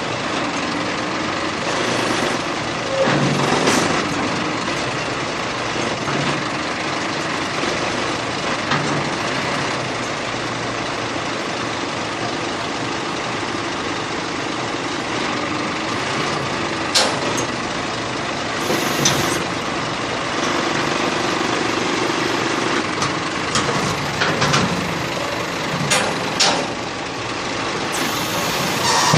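Scania truck's diesel engine running steadily, with a few short sharp knocks in the second half.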